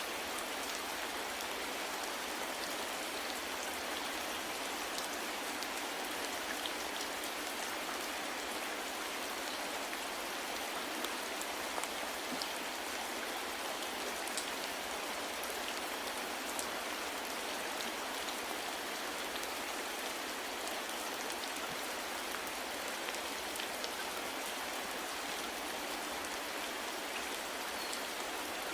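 Steady soft rain falling, with an even hiss of rainfall and scattered individual drops ticking now and then.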